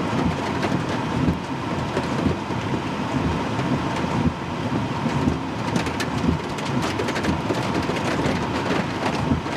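Storm noise: heavy wind and rain with a continuous low rumble and many brief sharp cracks and clatters throughout.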